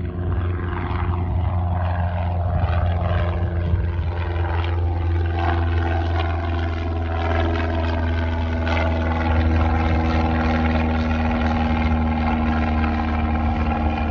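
Piston engine and propeller of a single-engine light airplane running steadily with a deep drone. The higher tones sweep and swirl during the first half, then hold steady.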